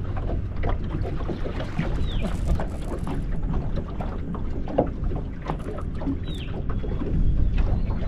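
Wind buffeting the microphone and water slapping against a small boat's hull, with scattered light knocks and clicks. Two short high chirps fall in pitch, about two seconds in and again about six seconds in.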